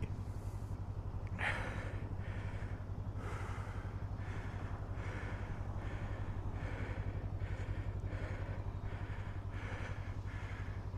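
Motorcycle engine idling steadily, with the rider breathing hard and fast, roughly one breath a second, from the exertion of working the bike out of the sand.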